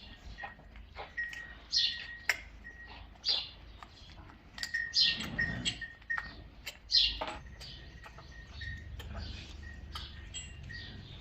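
Small birds chirping, many short high chirps in quick succession throughout, with a few clicks and some low rumbling.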